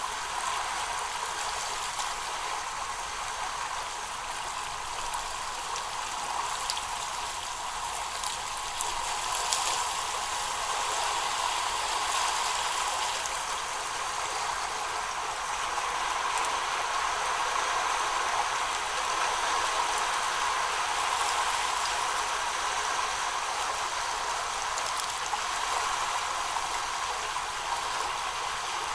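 Steady rushing, water-like noise with a few faint ticks, swelling slightly about halfway through.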